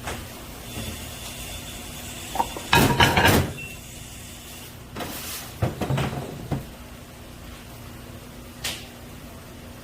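Restaurant kitchen handling noises over a steady background hum: a burst of knocks and rattles about three seconds in, another cluster around six seconds, and a single short knock near the end.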